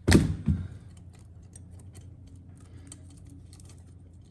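Metal engine parts being handled during a teardown of a Honda TRX90 engine. There are two loud knocks at the start, about half a second apart, then faint scattered clicks and taps over a low steady hum.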